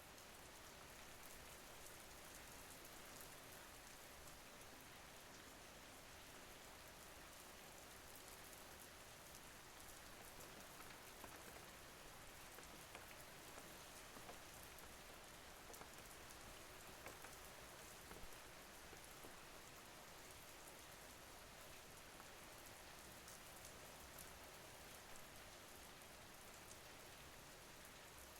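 Faint, steady rain falling: an even hiss with scattered drop ticks.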